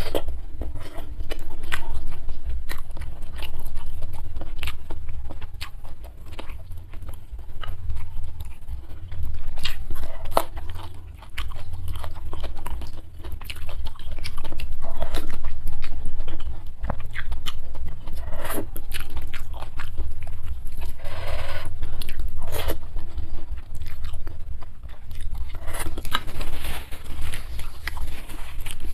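Close-miked eating of spicy fried instant noodles (Indomie goreng) with sardines: chewing and biting with many sharp mouth clicks and some crunching.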